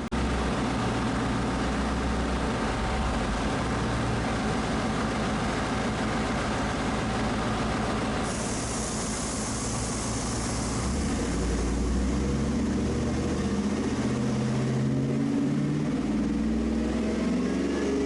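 The shop truck's 5.3-litre V8 running steadily at low speed through a 3-inch true dual exhaust with an X-pipe and Flowmaster Super 40 Delta Flow mufflers. A steady hiss joins in from about eight seconds in to about fifteen seconds in.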